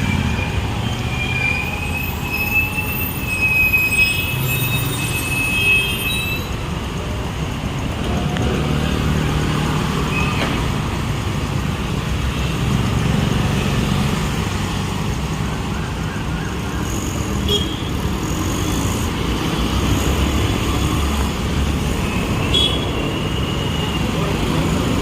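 Road traffic: car and other vehicle engines passing over a steady hiss of street noise, swelling and fading as vehicles go by. A thin, wavering high tone runs through the first few seconds.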